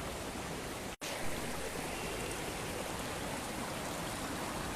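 Muddy floodwater rushing along a road like a river, a steady rushing noise. It cuts out for an instant about a second in.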